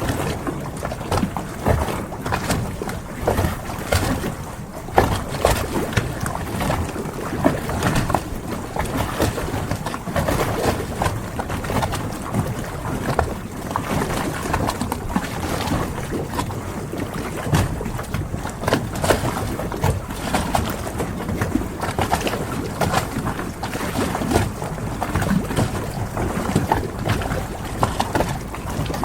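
Harbor ambience: water lapping around moored boats, with frequent small irregular knocks and clicks over a steady wash.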